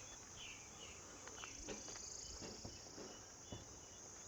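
Faint, steady high-pitched chirring of insects, with a few short higher chirps and small clicks over it.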